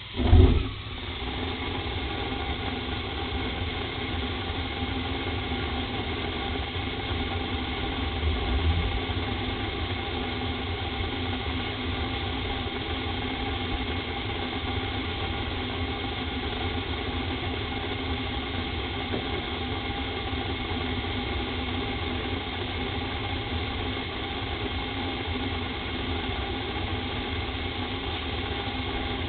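1985 Rheem gas furnace's burners lighting with a sudden loud whoomp about half a second in, then running with a steady rumbling roar that swells briefly near the 9-second mark. The furnace is prone to delayed ignition from clogged burner orifices, and not every burner lights.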